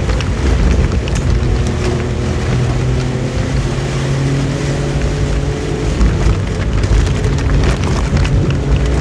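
Suzuki Jimny SJ30's two-stroke three-cylinder engine running while driving in heavy rain, its steady note dropping away about six seconds in, with rain hiss and spattering drops over it.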